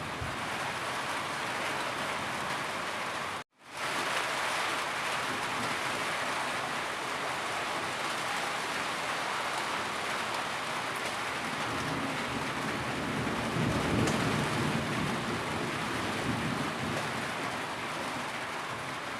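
Steady, dense rainfall hiss, rain falling on surfaces. It cuts out completely for a split second about three and a half seconds in, then resumes. A deeper rumble swells under it in the second half.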